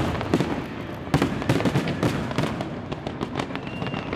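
Aerial fireworks going off: a dense run of sharp bangs and crackles, with a few louder bangs near the start and about a second in.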